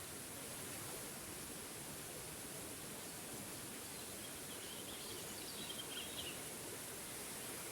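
Waterfall rushing steadily, with a bird chirping in a short run of calls about halfway through.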